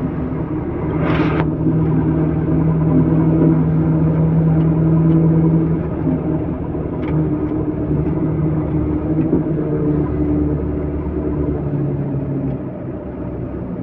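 Heavy diesel engine running steadily, its pitch shifting as the load changes partway through, with a short hiss about a second in.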